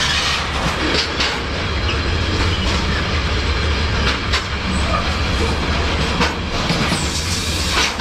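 Freight train rolling along, heard from on board between the cars: a steady heavy rumble with the clatter of wheels over the rails and a few sharp knocks scattered through it.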